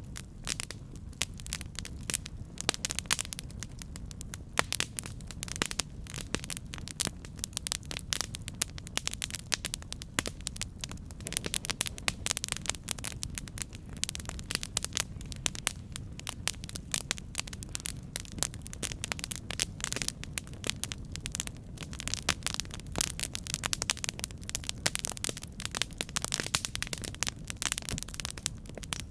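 Campfire burning, wood crackling and popping in a dense, irregular stream of sharp snaps over a steady low rumble of flame.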